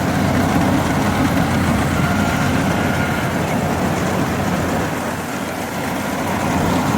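Sumo World 88 hp combine harvester running steadily, a dense low engine drone.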